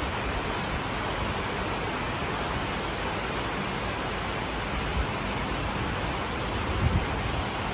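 Heavy rain falling, a steady even hiss. Near the end a low rumble begins to build.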